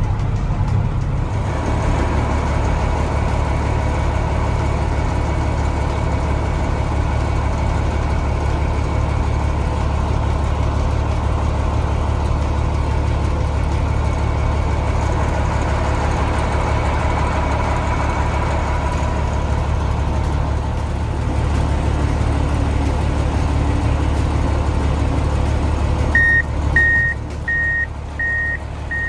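Heavy diesel truck engine running with a steady low drone. Near the end a backup alarm starts beeping, about one and a half beeps a second.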